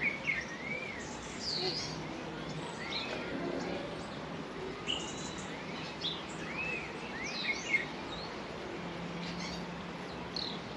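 Small birds chirping: many short, arching high calls, scattered irregularly, over steady outdoor background noise.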